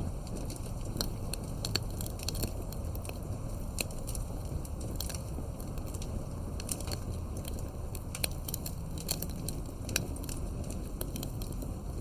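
Wood fire burning with a steady low rumble and irregular sharp crackles and pops from the burning wood.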